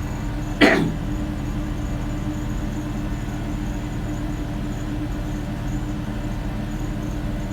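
Steady hum of a ship's machinery with a steady low tone running under it. About half a second in, one short loud sound that drops sharply in pitch.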